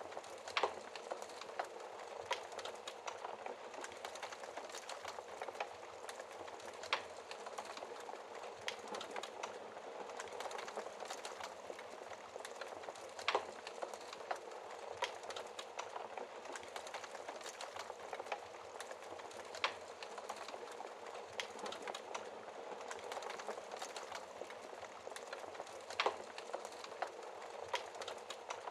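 Fireplace fire crackling: a steady, dense crackle of small snaps, with a louder sharp pop about every six seconds.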